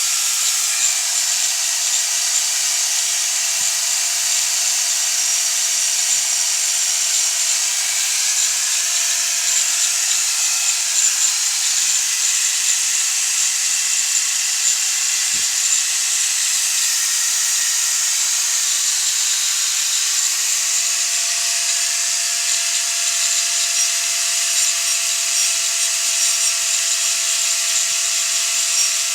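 A power tool running steadily: mostly a high hiss with a few faint steady tones.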